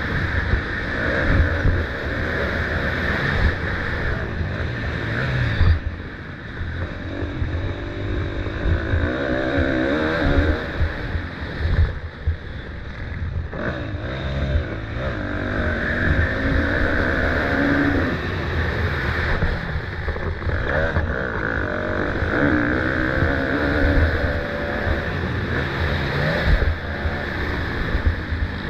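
Motocross dirt bike engines revving up and down as they race, over a heavy low rumble.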